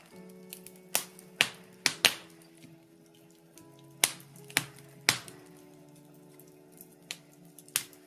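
Birch logs burning in a fireplace, crackling with sharp, irregular pops, about ten in the stretch, the loudest coming in a cluster from one to five seconds in. Soft background music of held chords runs underneath and changes chord a few times.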